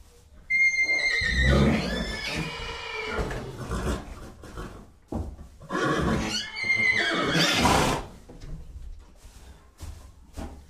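Horse whinnying twice, each a long high call with a shaking, wavering pitch that falls away into rougher breathy noise.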